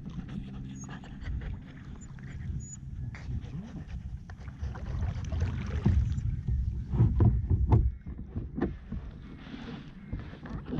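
Kayak being paddled on a lake: paddle strokes in the water and knocks against the hull over a low rumble, with a run of louder knocks and splashes about six to eight seconds in.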